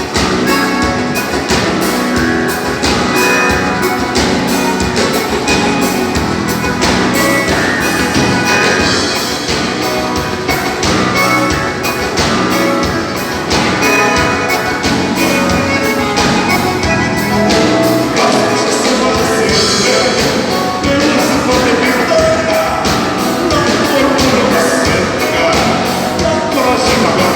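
Dance band playing a bugio, a gaúcho dance rhythm from southern Brazil, with a steady beat.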